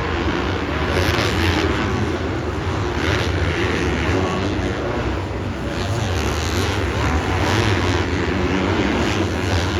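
Several dirt bike engines running together at high revs, a steady mixed drone.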